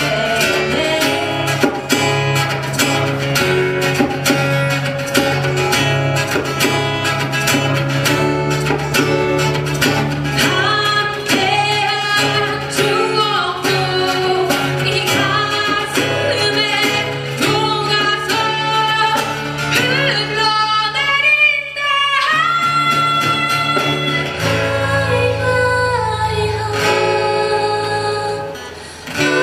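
Live acoustic guitar band performing a ballad, with guitars played under a sung melody. The music drops briefly near the end.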